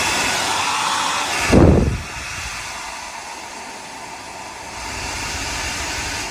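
DEWILY 1800 W ionic hair dryer running, a steady rush of air with a faint whine. About a second and a half in comes a brief loud low rumble, then the airflow runs quieter and builds again near the end.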